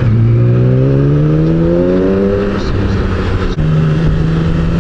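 BMW motorcycle engine heard from the rider's seat, pulling through the revs: its note climbs steadily for a couple of seconds, then settles, dips briefly and steps up to a higher steady note about three and a half seconds in, as with a gear change. Wind and road noise run underneath.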